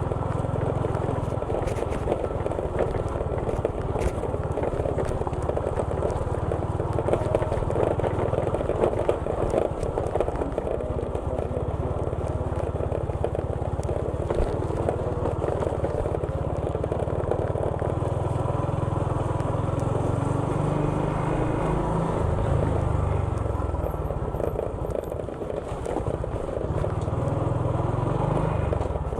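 Motorcycle engine running and road noise while riding along a street, steady, with the engine pitch rising and falling over the last several seconds.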